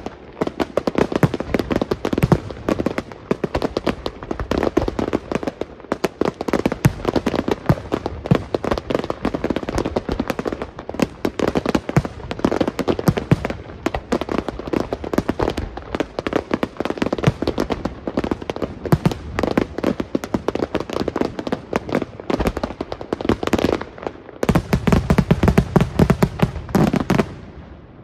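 Fireworks display going off: a continuous barrage of rapid bangs and crackling. Near the end comes a denser, louder volley that stops suddenly.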